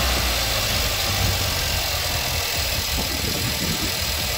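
Volkswagen Jetta GLI's 2.0-litre turbocharged four-cylinder TSI engine, freshly fitted with a Unitronic cold air intake and open cone filter, idling steadily.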